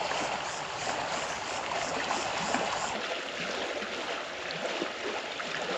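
River water rushing over rocks in a strong current: a steady noise of flowing water whose low rumble drops away about three seconds in.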